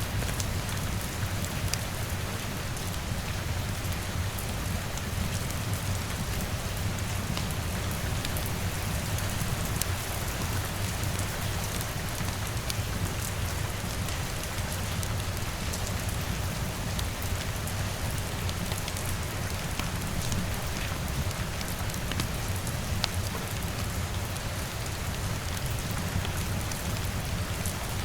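Steady rain ambience with a constant hiss and scattered sharp ticks of drops, over a steady low rumble.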